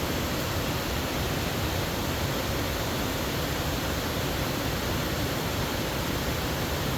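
Steady rushing roar of the Falling Water River's cascades and waterfall.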